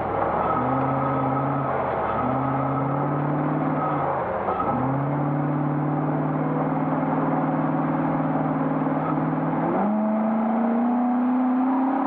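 The Classic Range Rover's 3.9-litre V8 is pulling under throttle, heard from inside the cabin. Its revs climb in several long pulls, each broken by a brief dip about two, four and ten seconds in as the driver eases off or shifts.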